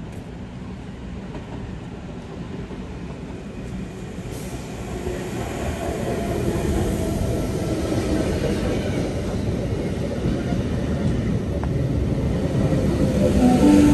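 A train approaching and running into the station, its rumble growing steadily louder.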